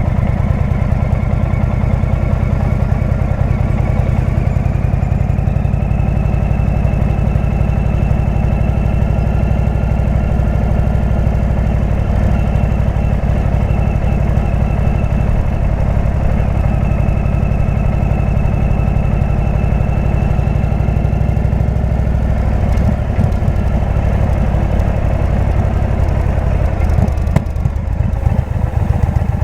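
Indian V-twin motorcycle with a Jekill & Hyde exhaust running under way, its engine note holding steady for most of the time. The note changes after a little over twenty seconds and turns uneven near the end.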